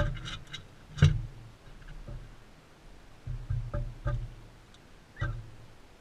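Crimson rosellas feeding at a seed feeder close to the camera: irregular knocks and taps of beaks and feet on the feeder, the loudest about a second in, with a few faint scratchy ticks at the start.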